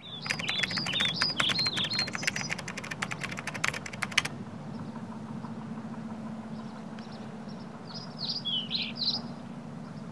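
Birds chirping over a steady low hum, with a rapid run of clicks that stops about four seconds in. A second short bout of chirps comes near the end.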